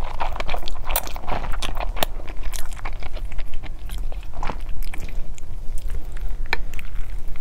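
Close-miked mouth sounds of a person chewing a mouthful of thick spicy Buldak-style noodles: a dense, irregular run of short wet clicks and smacks over a low steady hum.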